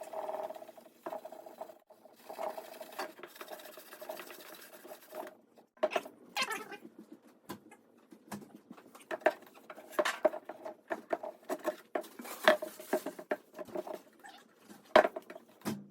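0000 steel wool scrubbing a motorcycle's painted steel gas tank, rubbing at a spot of surface rust in irregular scratchy strokes.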